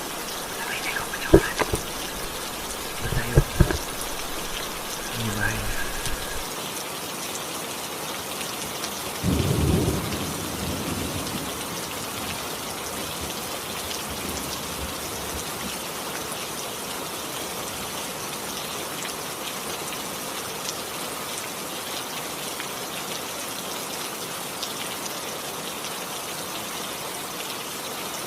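Steady rain falling, an even hiss throughout. A few sharp knocks come in the first few seconds, and a short low rumble about nine seconds in.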